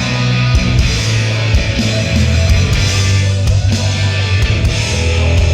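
Live rock band playing an instrumental passage with electric guitar, a heavy bass line and drums, loud and steady.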